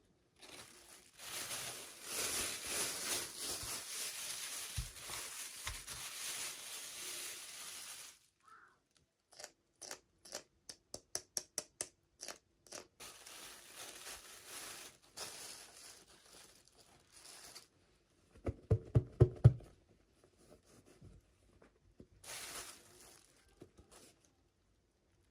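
Packaging being opened by hand during a toy unboxing: a long stretch of tearing and crinkling, then a run of quick clicks about three a second. Later comes more rustling handling, then a short burst of heavy knocks, the loudest part.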